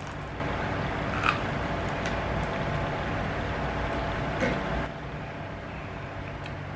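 Mouth sounds of a person chewing a bite of crispy pata (deep-fried pork knuckle), over a steady low hum. The chewing runs for about four seconds with two sharper smacks, then stops.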